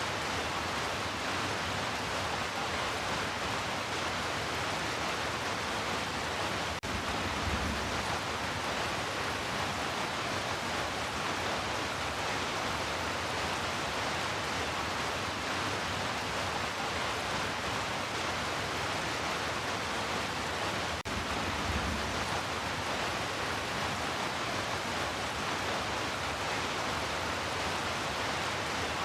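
Heavy rain falling as a steady, even hiss. A faint low rumble swells briefly twice.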